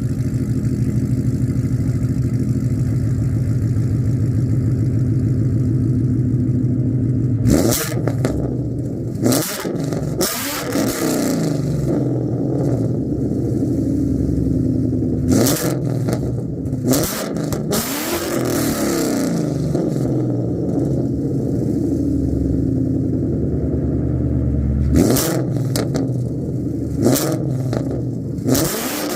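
Ford Mustang GT's 5.0 Coyote V8 through an MBRP exhaust with catted long-tube headers, idling steadily for several seconds and then revved in a series of sharp blips. After each blip the engine speed falls back toward idle.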